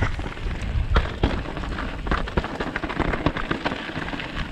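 Mountain bike rolling down a rocky trail: tyres crunching over stones, with many sharp knocks and rattles from the bike, over a low rumble of wind buffeting the action-camera microphone.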